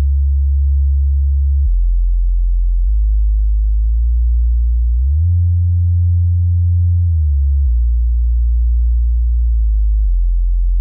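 Subwoofer test signal: deep, steady sine tones that hold one pitch, then step to another. The tone drops lower just under two seconds in, slides up about five seconds in, and falls back about seven and a half seconds in.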